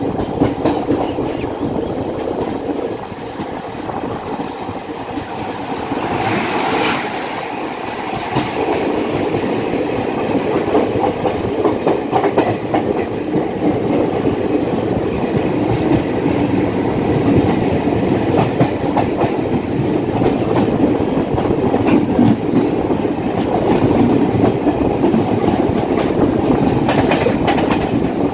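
Train running along the track, its wheels clattering steadily over the rails, with a few brief hissing surges along the way.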